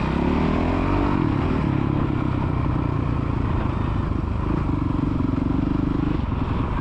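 Youth motocross dirt bike engine revving under throttle, its pitch climbing in the first second, then holding at steady high revs.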